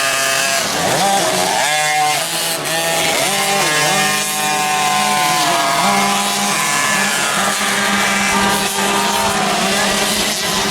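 Several motocross bike engines racing, their pitch repeatedly climbing and dropping with throttle and gear changes, overlapping one another.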